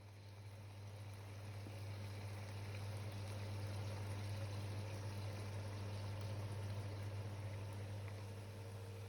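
A pot simmering on the stove: a faint boiling hiss over a steady low hum that swells slowly and eases off near the end.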